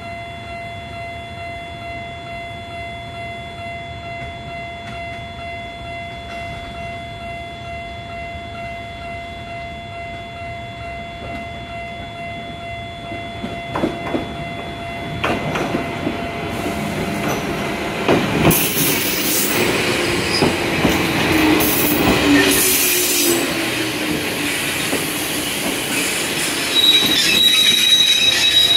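Toyama Chiho Railway 14760-series electric train arriving at a station: a steady level-crossing alarm tone sounds at first, then from about halfway the train's rumble grows, with wheels clacking over rail joints, a slowly falling wheel squeal, and a high brake squeal near the end as it slows alongside.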